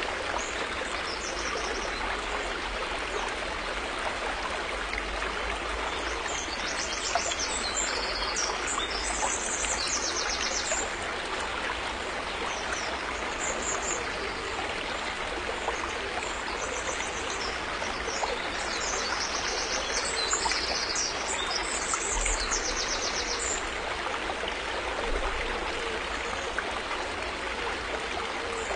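River water flowing and burbling steadily. High-pitched trills come and go above it in several spells.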